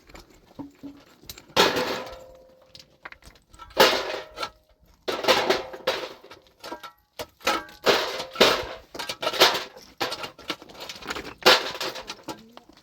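Repeated metallic clattering and scraping with a ringing after-tone, about eight or nine separate clanks spread unevenly over the stretch.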